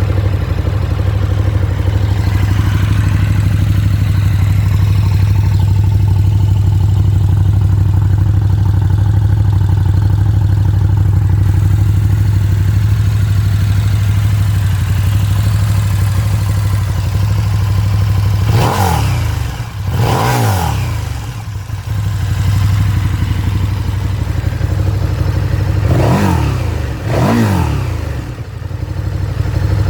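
2020 KTM 1290 Super Duke GT's V-twin engine idling steadily through its stock exhaust. About two-thirds through it is revved twice in quick succession, and twice more near the end, each rev rising and falling quickly back to idle.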